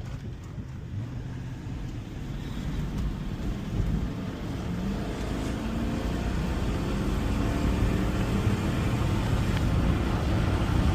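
V8 truck engine pulling under acceleration with road noise, its pitch and loudness climbing steadily over the second half.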